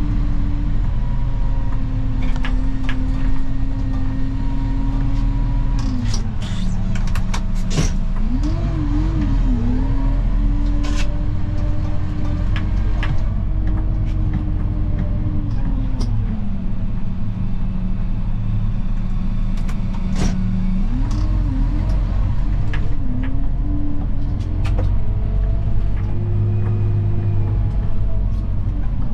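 Snowplow vehicle's engine running steadily while plowing, its pitch rising and falling several times as the engine speed changes, with a few sharp clunks scattered through.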